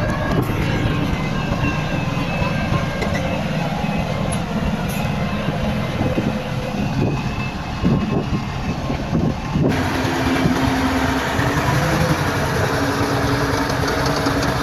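Heavy diesel earthmoving machinery running steadily at work. The sound changes abruptly about ten seconds in, to a steadier engine hum.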